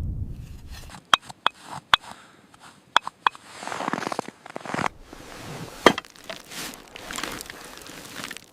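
About half a dozen sharp knocks at uneven intervals, with a rustling scrape between them.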